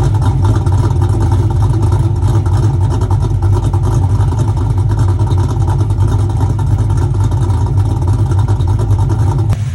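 2002 Pontiac Trans Am's LS1 V8 running steadily and loudly, with a low, choppy rumble.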